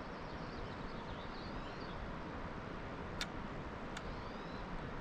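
Outdoor ambience: a steady hiss with faint, distant bird chirps, broken by two sharp clicks about three seconds in and again a second later.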